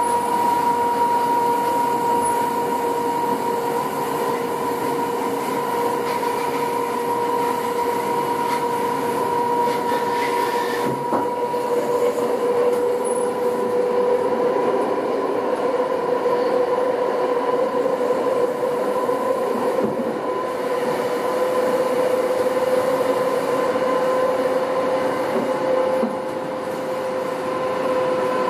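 Electric CityRail passenger train running at speed, heard from inside the carriage: a continuous rumble of wheels on the track with a steady whine over it.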